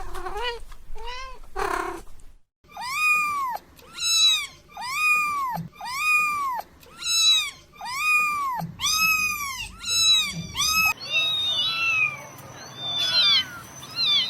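Kitten meowing over and over, high-pitched, a few calls, a short break, then a steady run of about one meow a second. About eleven seconds in the calls turn higher, shorter and overlapping, falling in pitch.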